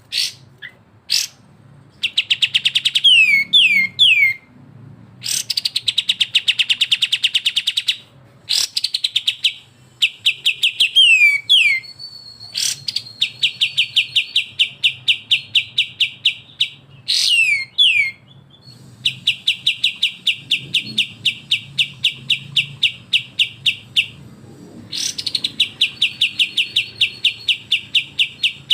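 Recorded birdsong of kapas tembak and cucak jenggot: long, very fast buzzing trills (besetan) of a few seconds each, broken by short downward-sliding whistled notes and brief pauses.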